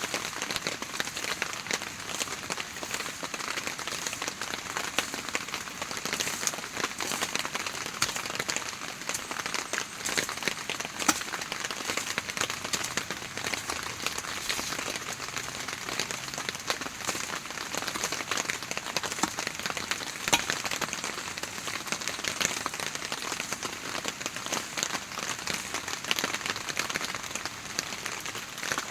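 Heavy rain falling steadily, a dense, even hiss of many small drop impacts.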